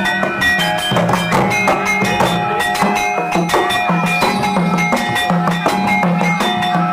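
Javanese jathilan accompaniment music: a gamelan-style ensemble of drums and struck metal keys. Ringing pitched notes sound over a repeating low note pattern and a busy, steady drum rhythm.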